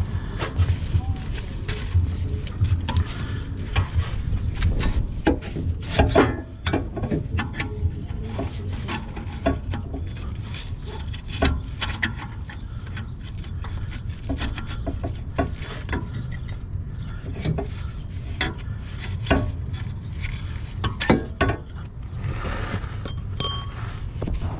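Scattered metallic clinks and knocks of a 2-inch exhaust pipe connector being handled and tried onto the exhaust pipe, over a steady low rumble.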